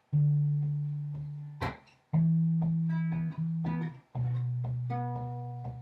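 Instrumental song intro on plucked guitar, with low notes struck four times, each ringing out and fading, and lighter higher notes picked between them.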